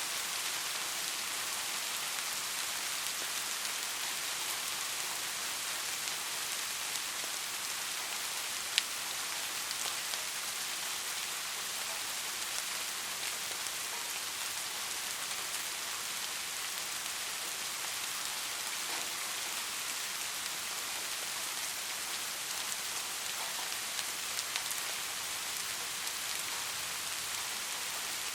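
Steady rain falling, an even hiss with scattered drops tapping, and one sharper drop tap about nine seconds in.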